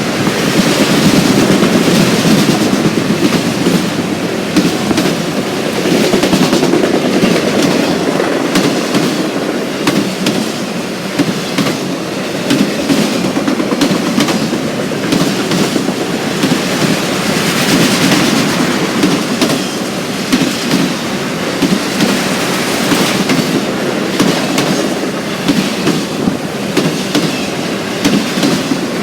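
Freight train of autorack cars rolling past at speed, a steady rumble with wheels clicking rhythmically over rail joints.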